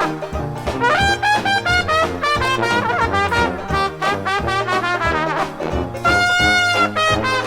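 Dixieland jazz band playing an instrumental, brass leading over a steady bass and rhythm section, with a long held horn note about six seconds in.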